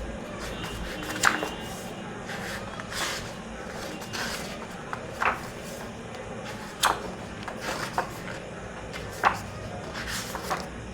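Pages of an illustrated children's book being turned by hand: a few soft paper swishes and about five sharp paper slaps as pages flip over and land.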